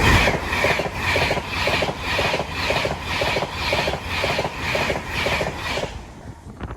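Class 390 Pendolino electric train passing close at speed: a loud rush of air and wheels with an even clickety-clack beat of about two pulses a second as the coaches' wheelsets go by, fading away about six seconds in as the tail of the train passes.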